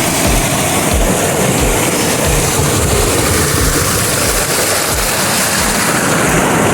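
Loud, steady rush of water from a mountain waterfall, with irregular low rumbles underneath.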